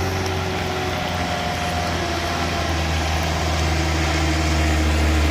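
Large vehicle engine running steadily at low revs, its drone growing slightly louder toward the end.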